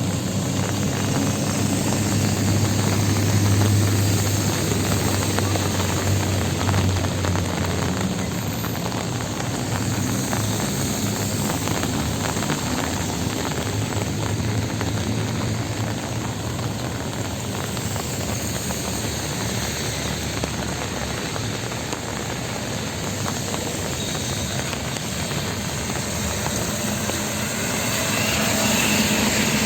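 City street traffic in the rain: vehicle engines running close by, their low drone over a steady hiss of rain and wet road.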